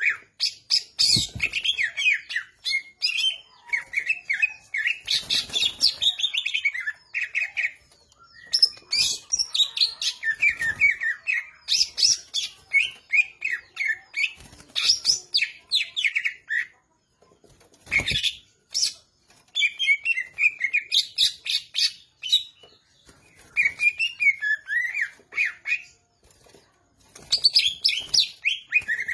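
Cucak ijo (green leafbird) singing in long bursts of quick, varied chirps and warbled whistles, with short breaks between phrases and a few low thumps.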